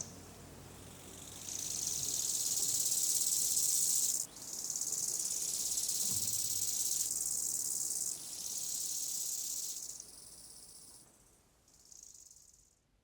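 Insects chirring in a high, dense hiss. It comes and goes in long stretches, fades out near the end, gives one short last burst, then stops.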